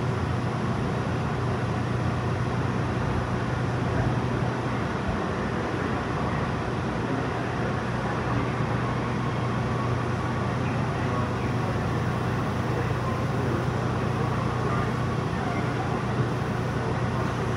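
Steady running noise inside an electric commuter train car, with a constant low hum under an even wash of noise.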